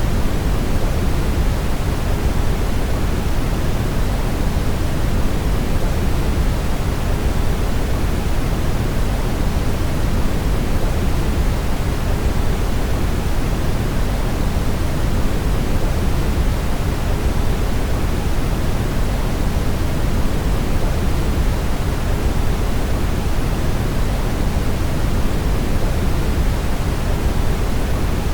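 Brown noise: a steady, unchanging hiss-like rumble, deepest and strongest in the bass and softer toward the top, with no drops or other events in it.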